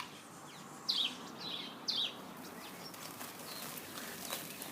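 Birds chirping, a few short falling chirps over a steady faint hiss.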